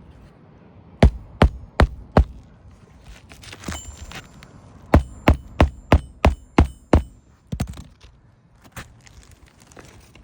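A series of sharp knocks or thunks in two runs: four evenly spaced strokes about a second in, then about seven quicker ones around the middle, with a few softer ones after.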